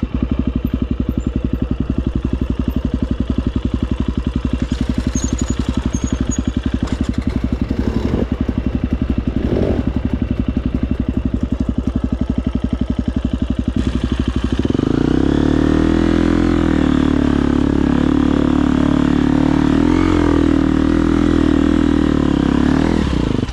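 Husqvarna FE250 single-cylinder four-stroke dirt bike engine running at low revs with a fast, even pulse. About two-thirds of the way through it steps up to a higher, steady rev note, then drops off just before the end.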